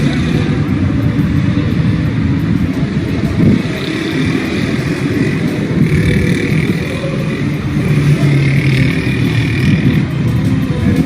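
Road traffic: car engines running steadily.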